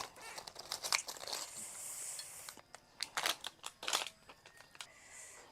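Scattered clicks, taps and crackly rustling of a noodle bowl and its food being handled with utensils.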